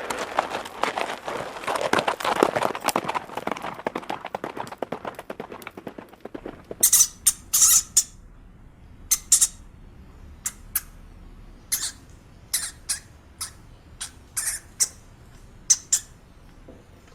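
Dense rustling and crackling for about six seconds, then a small animal's short, very high squeaks, repeated at irregular intervals.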